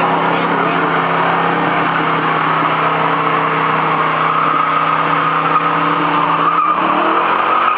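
Car burnout: the engine held at high, steady revs while the spinning rear tyres screech and hiss against the road. The engine note changes near the end.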